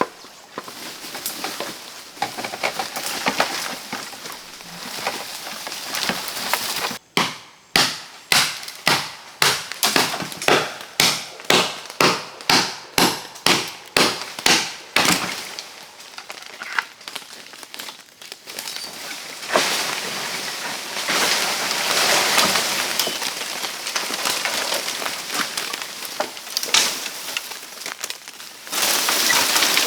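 Chopping at bamboo or wood: a run of about fifteen sharp blows, two a second, over some eight seconds. Before and after it, irregular rustling and crackling of brush and stems being handled.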